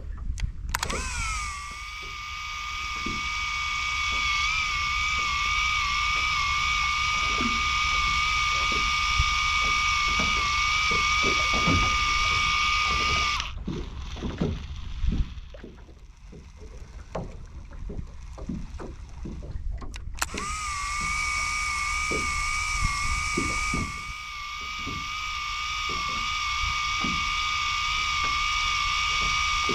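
Electric fishing reel's motor winding in line at a steady speed, a steady whine. It stops about halfway through for several seconds, then starts again and runs on. Light irregular knocks and clicks sound underneath.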